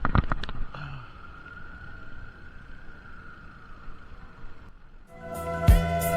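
Wind and road noise of a bicycle ride, with a few sharp knocks at the start and a faint steady whine throughout. About five seconds in, music with strong drum hits comes in.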